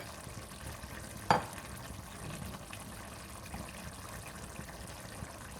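Spinach chicken curry simmering and sizzling softly in a pot on low heat, with one sharp knock about a second in, as of a lid or spoon against the pot.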